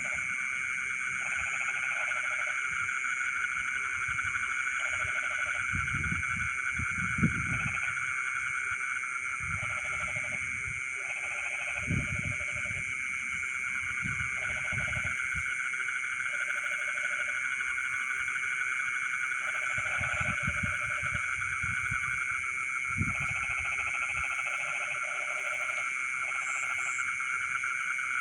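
Night chorus of frogs calling from rice fields over a steady high trilling of insects. Bouts of frog calls start and stop every second or two, with a few deeper croaks now and then.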